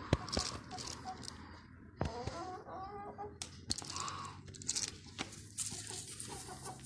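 Chickens clucking in short calls, among scattered sharp clicks and taps, with a rustling hiss near the end.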